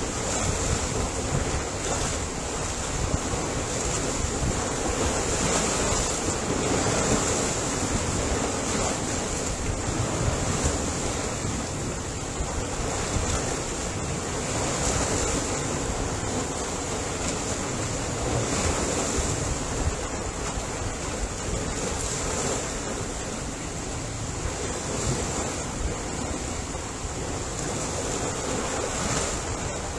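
Ocean waves breaking and washing in surf, a continuous rush that swells and eases every few seconds, with wind on the microphone.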